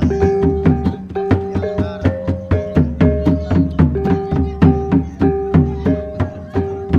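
Percussion music: fast, regular drum strokes under ringing pitched notes that hold and shift in steps.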